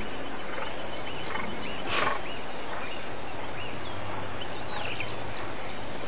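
Repeated short chirping bird calls over a steady outdoor hiss, with a brief burst of noise about two seconds in.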